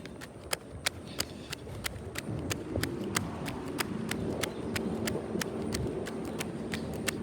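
A steady, even ticking about three times a second, like a turn-signal flasher. From about two and a half seconds in, a low engine hum joins it.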